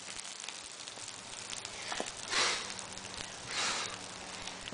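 Small fire of burning wooden toy trucks soaked in lighter fluid, crackling and sizzling with scattered small pops. Two short breathy hisses come about two and a half and three and a half seconds in.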